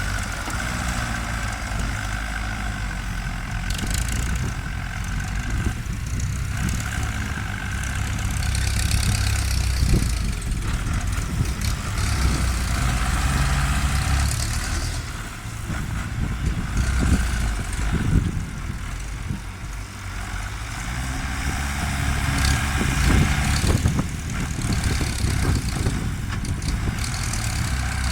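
Ford New Holland farm tractor's diesel engine running steadily, its loudness swelling and easing several times.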